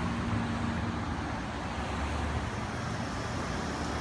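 Street traffic: motor vehicles passing with a steady low rumble, with a faint engine hum that fades out about a second and a half in.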